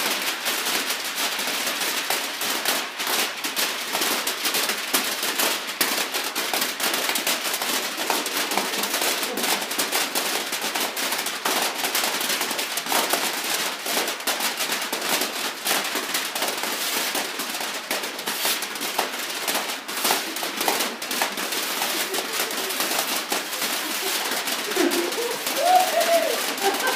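Many sheets of newspaper being rustled, crumpled and crackled together by a group to imitate a rain and hailstorm: a dense, continuous crackle of paper. A voice is briefly heard near the end.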